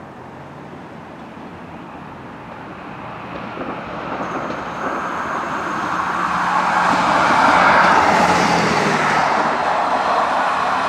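Class 158 diesel multiple unit approaching on the rails, its diesel engine and wheel noise growing steadily louder and peaking about eight seconds in, then easing slightly.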